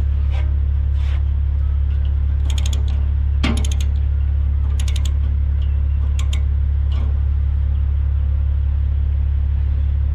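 A ratchet chain binder being worked, clicking in several short rapid bursts, over the loud, steady low drone of an idling diesel engine.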